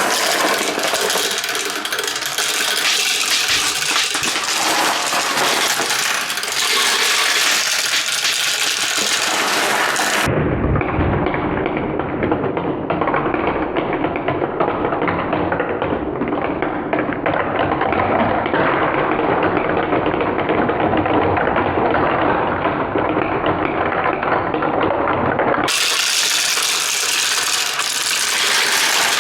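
Many plastic balls clicking and rattling as they roll down a plastic marble-run slope, a dense continuous clatter. From about ten seconds in until a few seconds before the end it sounds duller, with the high end cut off and more low rumble.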